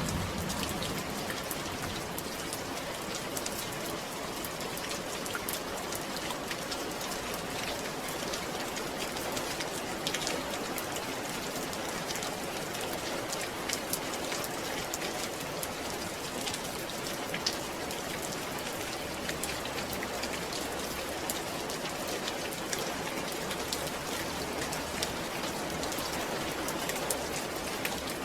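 Steady rain falling on a surface: an even hiss with scattered sharp ticks of individual drops.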